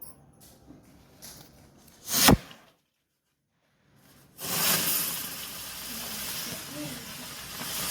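Dancing-wheel firecracker: a short, loud burst about two seconds in, then, after a break, a loud steady hiss of the burning spinner that lasts about four seconds.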